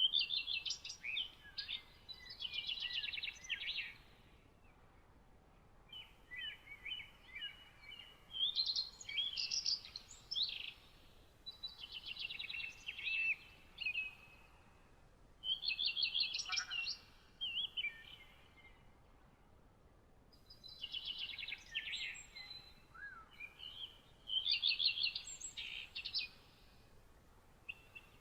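Songbird singing a series of quick, varied phrases of trills and whistled notes, each a second or few long with short pauses between, over a faint background hiss.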